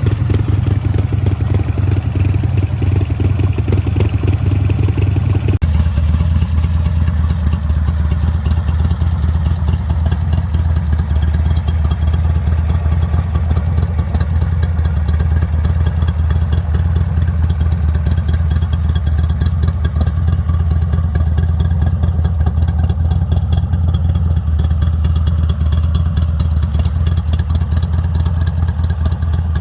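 Buell XB9R's air-cooled V-twin running steadily, then, after a sudden cut about five and a half seconds in, a Buell Ulysses XB12 V-twin running steadily without revving.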